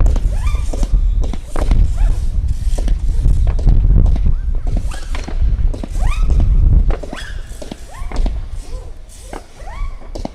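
Firework cakes firing: a rapid string of shots and bursts over a heavy low rumble, which eases after about seven seconds. Short rising whistles sound among the shots.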